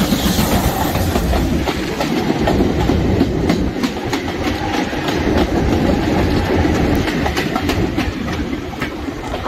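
Goods vans rattling past at close range on the adjacent track: a steady, loud rush of wheel and wagon noise with many quick clicks of wheels over rail joints, heard from an open carriage window.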